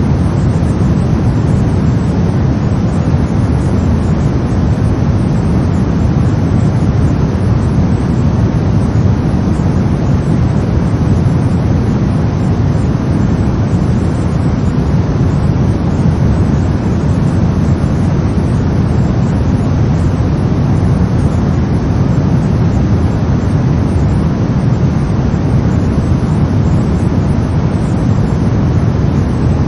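Brown noise: a steady, deep rumbling hiss, strongest in the low end, with no change.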